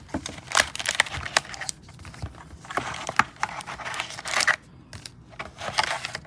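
Cardboard trading-card box being torn open and its foil-wrapped packs pulled out: tearing and crinkling mixed with quick clicks and taps.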